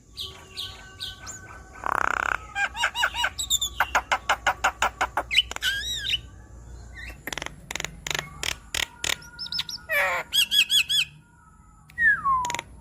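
Javan myna singing a varied, chattering string of harsh squawks, whistled notes and fast runs of clicks. There is a brief pause near the end, then a falling whistle.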